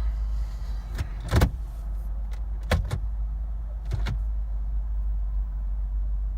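Short sharp clicks inside a car's cabin, some in quick pairs, as the ignition key and gear selector are worked, over a steady low rumble. The engine does not crank or start, the no-start that the owner links to the transmission.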